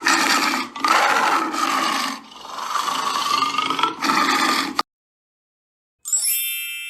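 Tiger roaring: a run of rough, throaty roars over about five seconds, then a bright ringing chime near the end.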